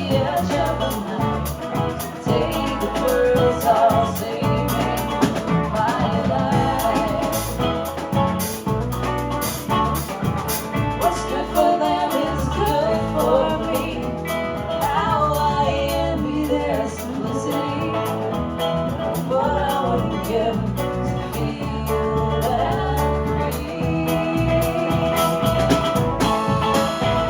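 A band playing a song with a steady drum beat and a melody that bends in pitch; no words are sung clearly.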